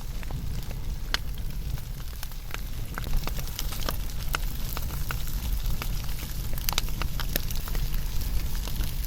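Wood fire crackling: irregular sharp pops and snaps over a steady low rumble of burning. The pops come thicker in the second half.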